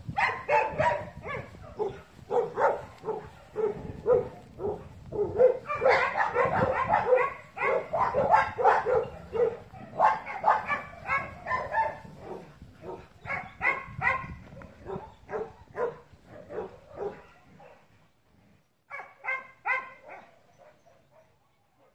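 A dog barking in quick runs of short barks, several a second, thinning out later on, stopping briefly, then a short run of barks again near the end.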